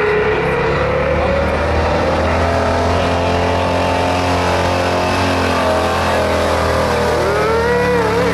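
1976 Ford F-350 gas engine working hard under steady heavy load, pulling the sled down a blacktop track, with its pitch drifting slowly. A brief wavering squeal rises and falls near the end.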